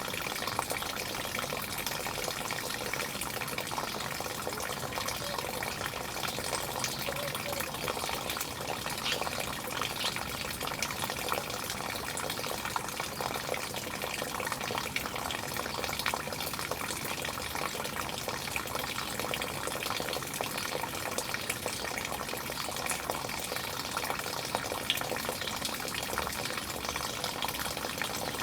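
Steady splashing of running water, like a small waterfall or fountain, with an even rush that does not change.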